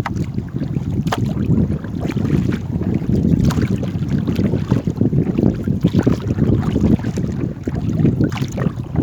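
Wind buffeting the microphone as a loud low rumble, over water and paddling sounds from a small rowed boat, with scattered small knocks and splashes.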